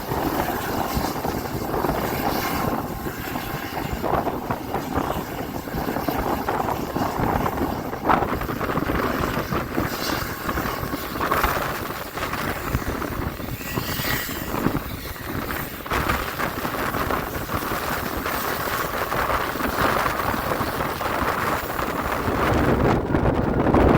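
Passenger train running at speed, heard from on board: a steady rumble of wheels on rails with wind buffeting the microphone, and a few brief clicks and knocks.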